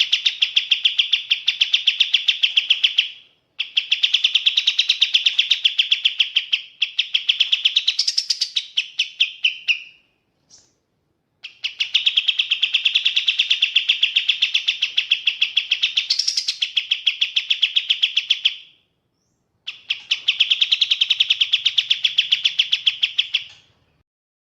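Kapas tembak bird singing: long, fast trills of rapidly repeated chattering notes. Five phrases run a few seconds each with short breaks between them, and a brief higher note stands out twice.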